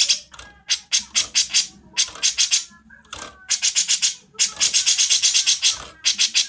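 A songbird giving harsh, rapid-fire 'tembak kasar' song: rattling runs of quick, evenly spaced rasping notes, each run about a second long, with short pauses between runs.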